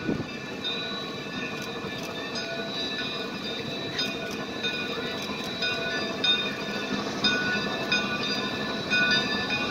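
Geared steam locomotive train running on the rails, with several high steady tones that come and go and occasional sharp clicks.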